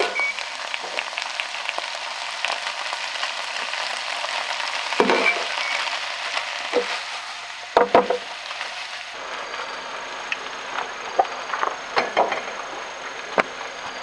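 Food frying and sizzling in a pan, with scattered clicks and knocks of a utensil stirring it; the loudest knocks come about five and eight seconds in.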